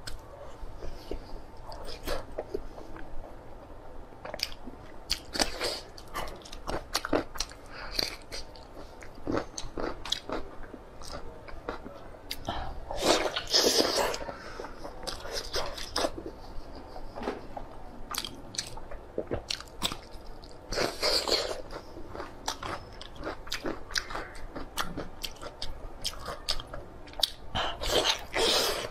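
Close-miked biting and chewing of braised pig's head meat with skin: a steady run of sharp, wet mouth clicks and smacks, with a few louder bites along the way.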